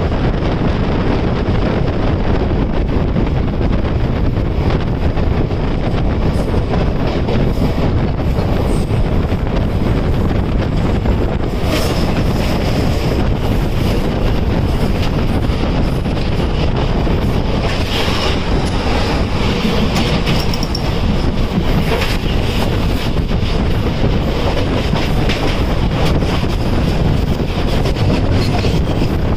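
Passenger train coach running along the track, heard from aboard: a steady, loud rumble of wheels on rails with occasional knocks over the joints. A faint high wheel squeal comes up about twelve seconds in and again around eighteen to twenty seconds.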